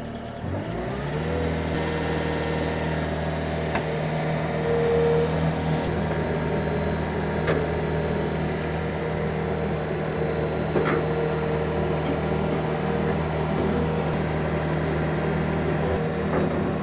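Farm tractor engine starting and coming up to speed over about the first second and a half, then running steadily, with a few light clicks.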